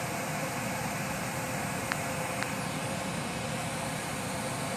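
Stove exhaust fan running steadily on its high setting: a steady rush of air with a faint steady hum. Two light clicks come about two seconds in.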